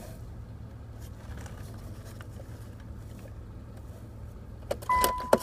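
2003 Mitsubishi Galant's 2.4-litre four-cylinder engine idling steadily, sounding healthy. Near the end come a few sharp clicks and a short electronic beep.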